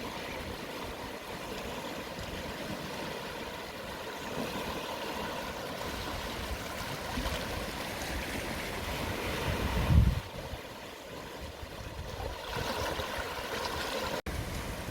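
Gentle sea waves at low tide washing steadily over the shore. About ten seconds in, a low gust of wind buffets the microphone, and the sound cuts out for an instant near the end.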